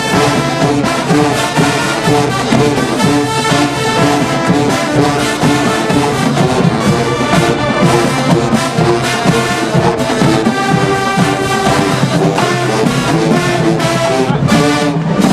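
Marching band playing, the brass section of trombones and trumpets loud in held chords over a steady drum beat.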